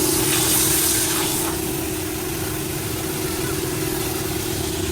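Car-wash pressure washer running: a steady motor hum with a low rumble and the hiss of spraying water, the hiss strongest in the first second or so.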